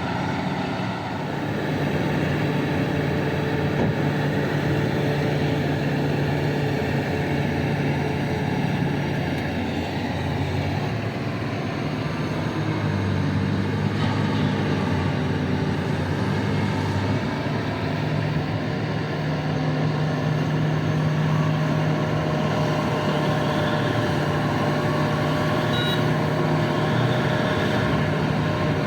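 Heavy diesel engines of mining machinery, a large loader and haul trucks, running steadily under load, their engine note shifting in pitch now and then.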